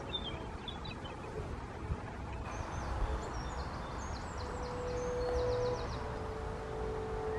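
A small songbird singing in woodland: short phrases of high chirps, the later one ending in a quick run of repeated notes, over a steady low background rumble.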